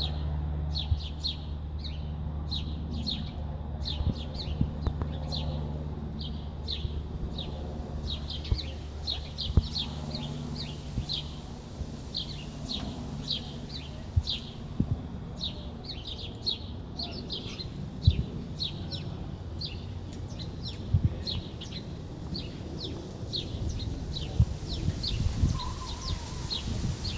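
Small birds chirping continually: short, high chirps repeating several times a second with brief gaps. A steady low hum sounds under them for the first several seconds and then fades, and occasional low knocks come through.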